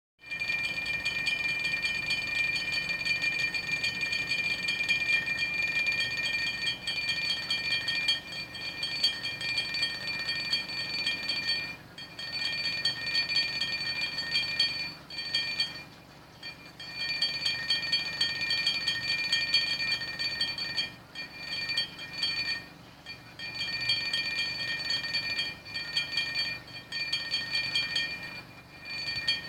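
Drinking glasses rattling and ringing against each other, set off by a running washing machine's vibration: a steady high clinking ring over a low hum, which stops for a moment several times.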